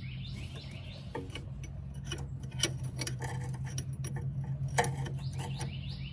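Irregular sharp metallic clicks and taps of hand tools, clustered in the middle few seconds, over a steady low hum.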